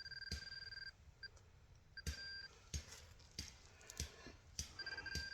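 Metal-detecting pinpointer giving a steady high beep in several on-and-off stretches as it closes in on a buried target, with sharp knocks and scrapes of probing and digging in the dirt.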